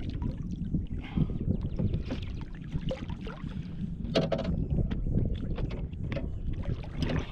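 Wind buffeting the microphone over water slapping against a small skiff's hull, with scattered short knocks and splashes while a fish is being brought to the boat.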